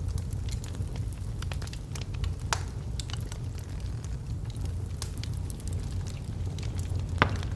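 Wood fire in a fireplace burning steadily, a low rumble of flames with irregular crackles and pops from the logs, two sharper pops about two and a half seconds in and near the end.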